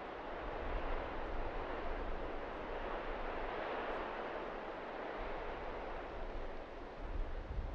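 Blizzard wind gusting, swelling in and blowing steadily, with a low rumble of wind on the microphone.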